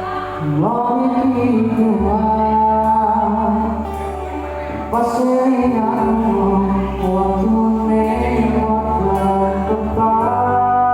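Live band music with a singer holding long notes that slide up into each phrase, over steady bass notes that change every few seconds.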